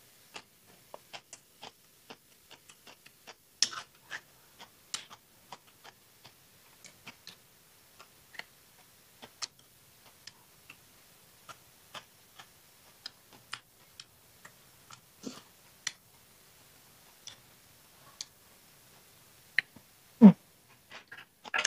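Close-miked mouth sounds of someone chewing a raw vegetable and shrimp salad: irregular wet clicks and crunches, a few a second. A brief, louder low sound comes near the end.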